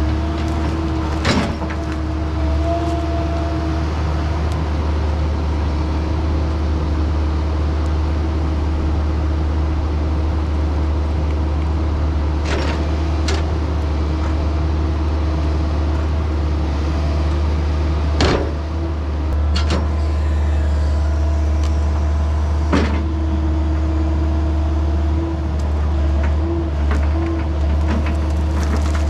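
An engine running steadily under load, with a handful of sharp knocks and clanks scattered through it.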